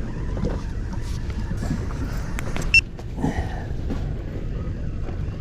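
Steady low rumble aboard a small fishing boat, with scattered light clicks and one sharp click with a brief high ring a little past halfway through.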